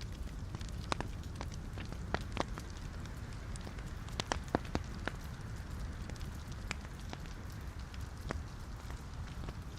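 Wood fire in a fireplace: logs burning with a steady low rumble and scattered sharp crackles and pops, a few louder pops about halfway through.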